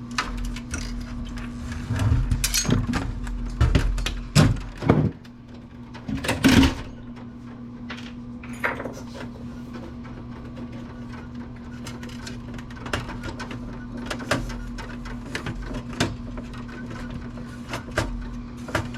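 Clicks, knocks and clatter of plastic and metal parts being handled and pried while an old Apple computer is taken apart, busiest in the first third, over a steady low hum.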